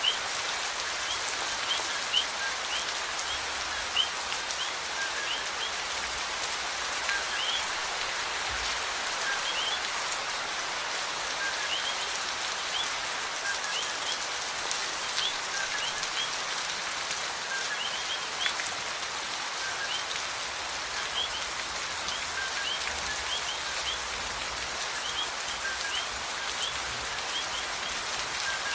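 Steady rain falling, an even hiss of drops on surfaces with the odd louder drip. Many short, faint, high chirps are scattered through it.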